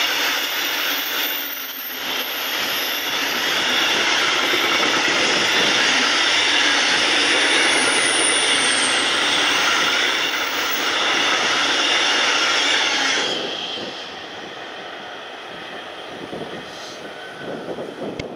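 Car-shuttle train of car-carrier wagons rolling past close by: a steady rumble of wheels on rail with a brief faint high squeal about eight seconds in. The noise cuts off sharply about thirteen seconds in as the last wagon passes, leaving a quieter fading train and wind.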